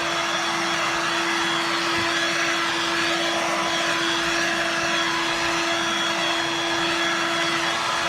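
Dirt Devil Vibe corded stick vacuum running steadily, its motor giving a constant even whine over a rushing air noise.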